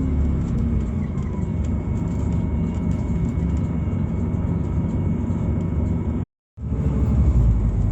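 Inside a Scania Citywide LFA city bus, its Scania OC09 natural-gas engine runs with a steady low rumble under road noise. The sound cuts out completely for a moment about six seconds in.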